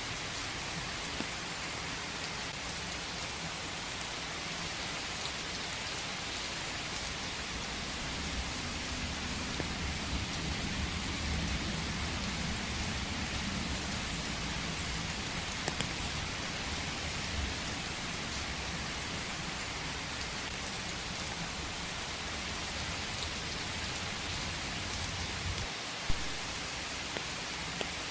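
Steady rain falling in a forest, an even hiss of drops. Through the middle a low rumble of distant thunder swells and fades, and near the end a single sharp tap stands out.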